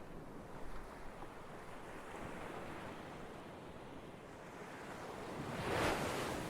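Ocean surf: a steady wash of waves, with one wave swelling and breaking loudest near the end.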